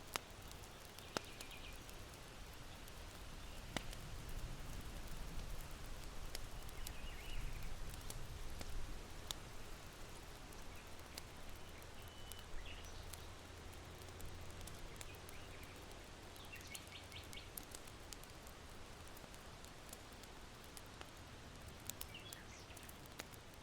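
Charcoal in an irori hearth crackling with sparse sharp pops, while small birds chirp faintly now and then. Underneath is a low rumble of wind that swells for several seconds in the middle.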